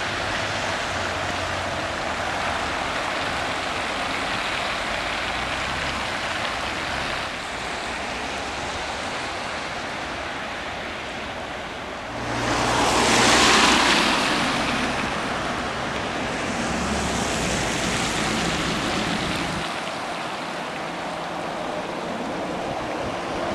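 Steady rush of water and traffic on a flooded street, with a low engine hum. About halfway a car passes through the standing flood water, its wash swelling up loudly and fading over a couple of seconds, then a weaker swell follows.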